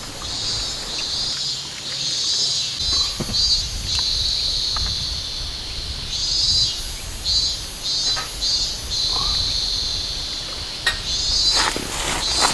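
Insects calling in high-pitched pulsing bursts that come and go, over a low steady rumble.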